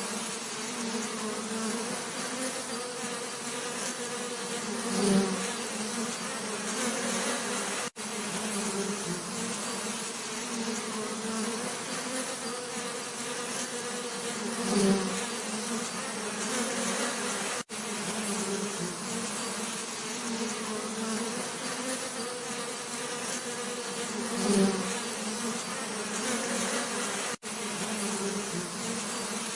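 Bees buzzing in a steady drone, with one bee swelling louder as it passes close three times, about every ten seconds. Each pass is followed a few seconds later by a brief cut, the join of a short recording played in a loop.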